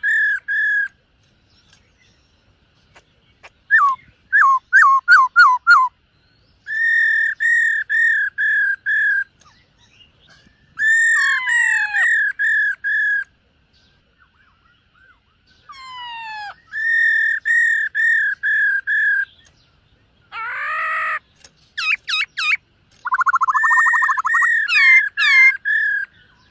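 Black-throated laughingthrush singing: phrases of clear, rapidly repeated whistled notes, each phrase a second or two long with short pauses between, mixed with quick descending notes, sweeping glides and one harsher, buzzier phrase about twenty seconds in.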